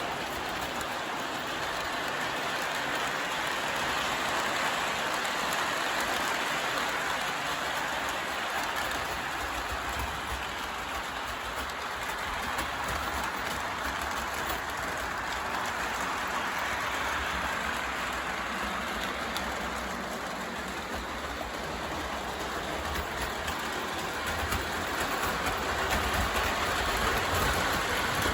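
O gauge model train running on the track: a Pennsylvania starter-set steam locomotive's motor and wheels hauling a long string of cars, a steady rolling rattle and hum. It sounds rough, as the engine is working hard with a heavy load.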